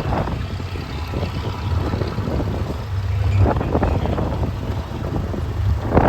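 A vehicle running with a steady low rumble, with wind buffeting the microphone in gusts.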